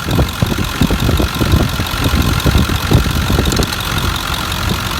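Ford 7.3-litre Power Stroke V8 turbo-diesel idling steadily with the usual diesel clatter, in a 2002 F250 whose muffler has been deleted.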